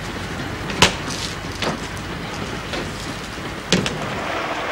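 Steady heavy rain, with a few sharp knocks over it; the two loudest come about a second in and near the end.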